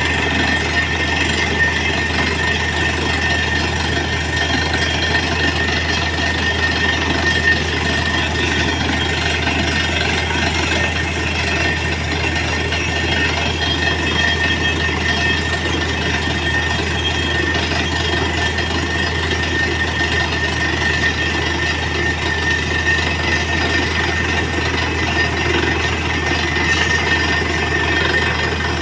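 Truck-mounted borewell drilling rig's diesel engine running steadily under load, with a constant high whine over its low drone.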